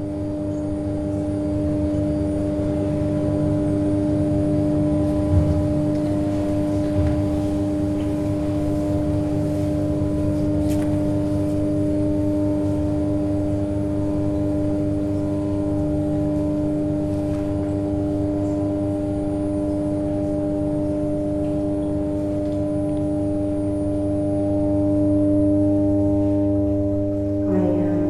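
A sustained musical drone of several steady tones stacked together, swelling in at the start and holding throughout. Two soft thumps come a few seconds in, and a wavering, voice-like line enters near the end.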